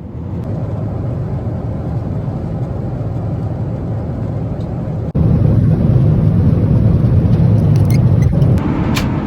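Steady rushing and rumbling cabin noise of a Boeing 777-300 airliner in flight. It becomes suddenly louder about five seconds in, with a few faint clicks near the end.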